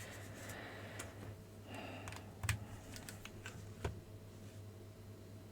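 A few faint clicks and taps of a handheld console being handled, three sharp ones spread across a few seconds, over a steady low electrical hum.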